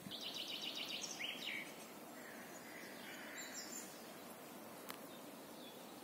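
Birds calling in woodland: a rapid trill of high chirps for about a second at the start, then a few falling notes and scattered faint calls over a steady outdoor hiss, with one sharp click near the end.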